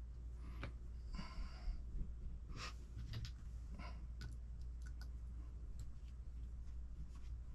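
Small hard parts of an RC truck's transmission and ball differential clicking and tapping as they are fitted by hand, with a short rustle about a second in, over a steady low hum.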